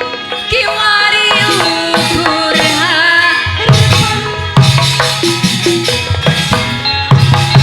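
Live Javanese gamelan music with kendang hand drums keeping a lively rhythm under a wavering melodic line, with no singing voice standing out.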